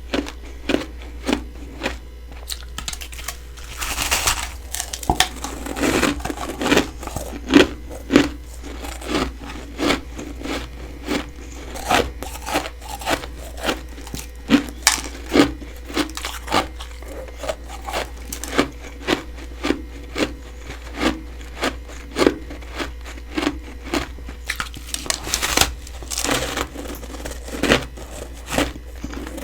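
Close-up chewing of freezer frost: steady crisp crunches about twice a second, with a couple of longer, noisier crunching stretches, likely fresh bites.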